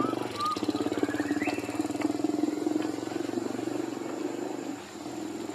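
A small engine running steadily with a fast, even pulsing beat, with a few short high squeaks near the start.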